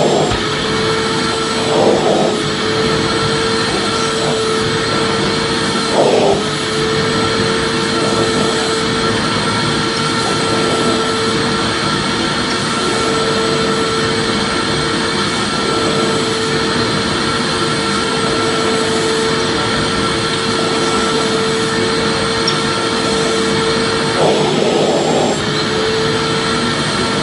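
Vacuum cleaner running steadily: a constant motor whine over a rushing hiss of air, with a few short swells in the airflow.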